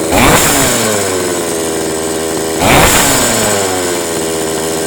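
Small two-stroke chainsaw engine revved twice, each time the revs sinking back slowly to a high idle. Its idle stays too high and cannot be turned down, which the owner feels comes from too much fuel reaching the engine.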